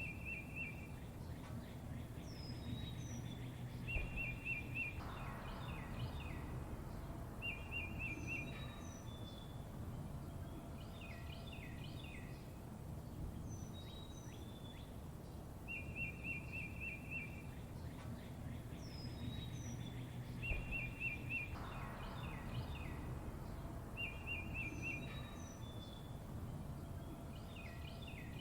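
Songbirds chirping: short trilled phrases and quick high chirps from several birds over a steady low background rumble. The same sequence of calls repeats about every 15 seconds.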